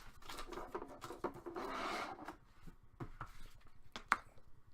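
Hands handling trading cards and their packaging: a rustle for about two seconds, then a few light clicks and taps.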